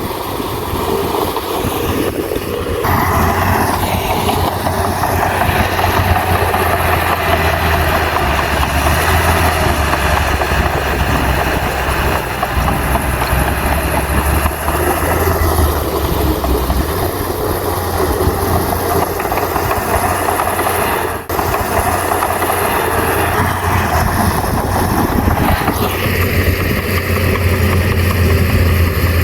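Heavy diesel engine of earthmoving machinery running steadily, with a deep low hum and mechanical clatter. The sound steps up suddenly about three seconds in and shifts again near the end.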